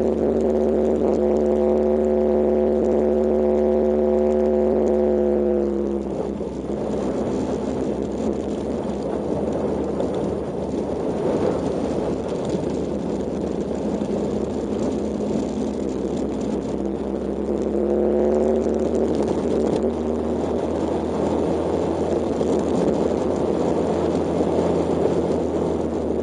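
Kawasaki KLX125 motorcycle's single-cylinder four-stroke engine running at a steady speed on a gravel road. About six seconds in, the engine note fades under a rough rumbling noise, and it comes back in the last third.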